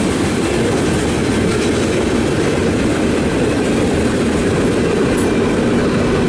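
Freight cars of a Canadian National mixed freight train rolling past at a steady speed, a continuous low rumble of wheels on rail.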